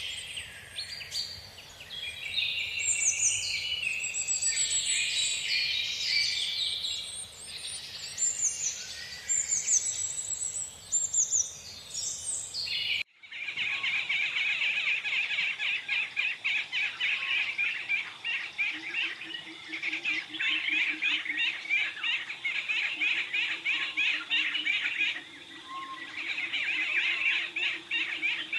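Wild birds chirping and calling, many overlapping high chirps and whistles. About halfway through the sound cuts abruptly to a different, denser stream of rapid repeated chirps.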